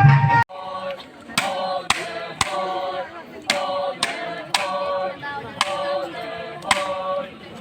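A group of people singing together without instruments, with sharp hand claps keeping a beat about twice a second.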